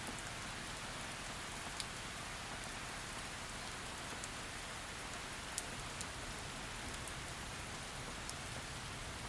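Steady heavy rainfall, a dense even hiss, with scattered individual drops hitting close by, one sharper than the rest a little past halfway.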